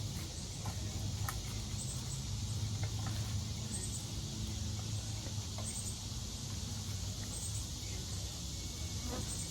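Steady outdoor insect chorus, crickets trilling, over a low hum, with a few faint high chirps and ticks.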